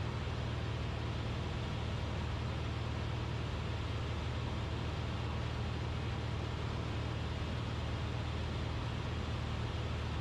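Cessna 172RG's four-cylinder Lycoming engine and propeller droning steadily in flight, a constant low hum with no change in pitch.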